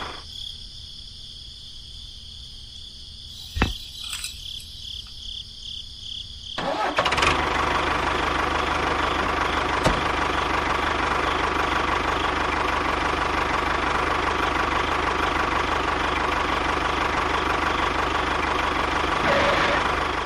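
Engine running steadily, sounding muffled and thin for the first six seconds or so, with one sharp knock about three and a half seconds in. After that it is fuller and louder.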